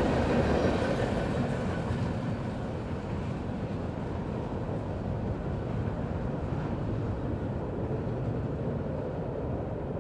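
Freight train cars rolling away on the rails, a low rumble that fades steadily as the end of the train recedes.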